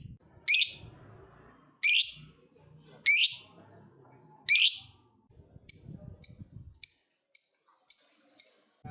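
Lovebird calling: four loud, harsh screeches a little over a second apart, then six short, high chirps at about two a second.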